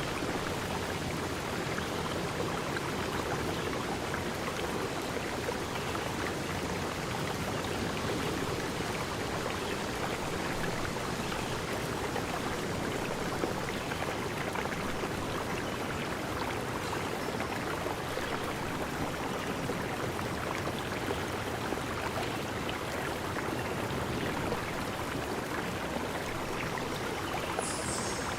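Steady rush of flowing stream water, with a few brief high-pitched chirps near the end.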